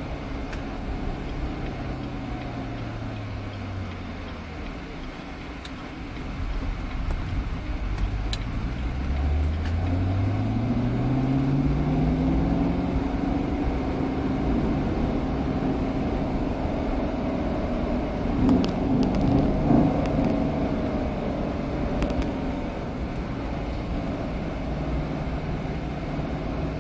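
Corvette Stingray's 6.2-litre V8 on the move: its note drops away over the first few seconds, then rises steadily from about six seconds in as the car accelerates, and settles into a steady cruise over road noise.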